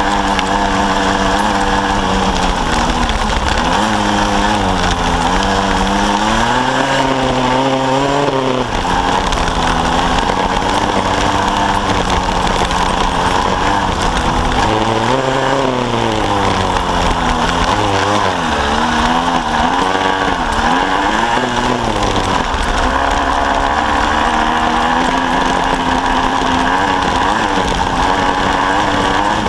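Kawasaki KSR-2's small two-stroke single engine running under load on a dirt trail. Its pitch repeatedly falls and climbs with throttle and gear changes through the middle, and holds steadier near the start and end.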